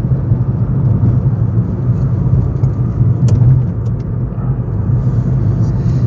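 Steady low rumble of a car's road and tyre noise heard from inside the cabin while driving over a rough road surface, with a few faint ticks about three and four seconds in.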